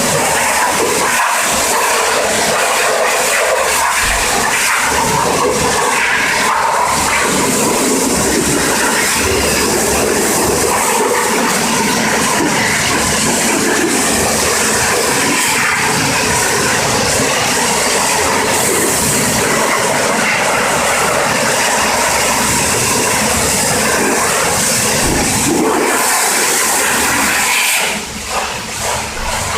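High-pressure washer jet spraying water onto a car's engine bay, a loud steady hiss. It breaks off briefly near the end.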